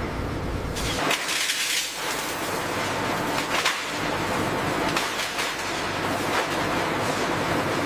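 Steady industrial forge-shop noise with a few sharp metallic knocks and strikes.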